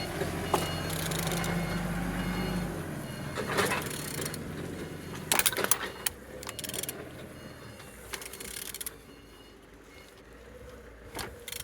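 A used engine being rotated to show it turns freely: scattered mechanical clicks and knocks, with a low steady hum that stops about three seconds in.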